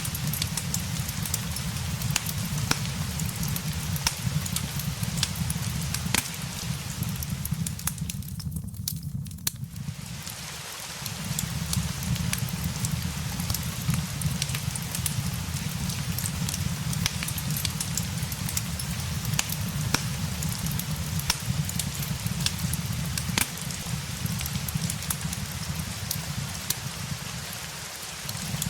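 Steady rain hiss layered with a crackling fireplace, whose sharp pops and snaps come irregularly throughout over a low rumble. The rain hiss thins out briefly about eight seconds in.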